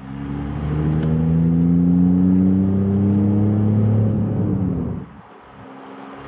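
A VW Lupo 3L's 1.2 TDI three-cylinder diesel, heard from inside the cabin, pulling under acceleration, its note rising slowly. About four and a half seconds in the engine sound falls away and stays lower until the end.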